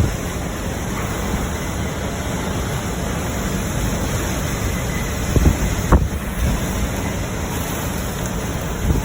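Hurricane-force wind blowing hard and steadily, buffeting the microphone, with two sharp knocks about five and a half and six seconds in.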